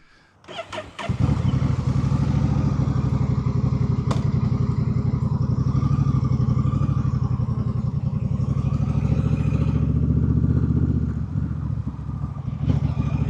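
Honda Rebel motorcycle engine running steadily at an even speed, coming in suddenly about a second in and dropping off somewhat near the end.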